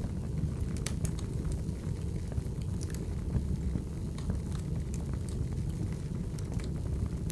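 Wood fire burning: a steady low rumble of flames with scattered sharp crackles and pops from the burning firewood.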